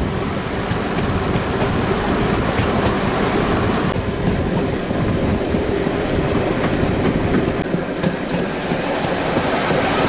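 Passenger coach of a heritage railway train running along the line: a steady noise of wheels on the rails mixed with rushing air at the open window.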